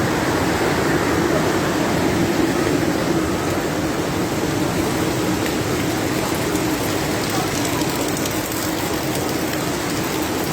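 Loud, steady rush of water, an even hiss with no breaks, as from floodwater pouring over an overflowing bridge.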